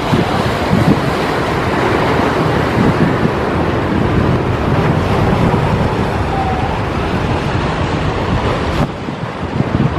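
Sea surf washing steadily, with wind buffeting the microphone in low gusts that ease off a little near the end.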